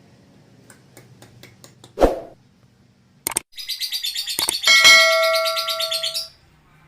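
A lovebird's rapid, chattering high trill lasting about three seconds, with a steady bell-like ringing tone over its second half. A single thump comes about two seconds in, with a few soft clicks before it.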